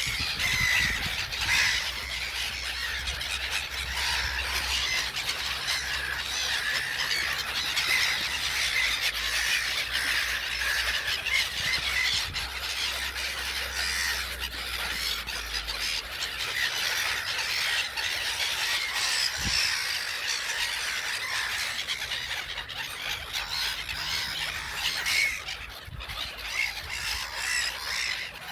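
A flock of gulls calling continuously, many cries overlapping at once.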